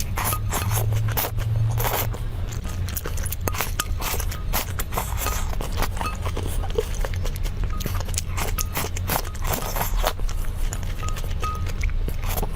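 Close-miked eating: many quick, crisp crunching and crackling bites and chews, over steady background music.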